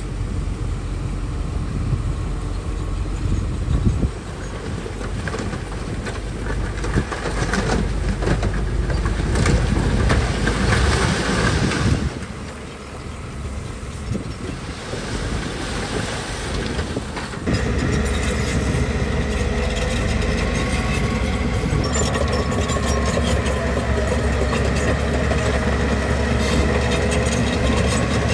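Heavy diesel earthmoving machinery, most likely a bulldozer, running and working with its engine rising and falling under load; about two-thirds of the way through the sound changes abruptly to a steadier engine drone.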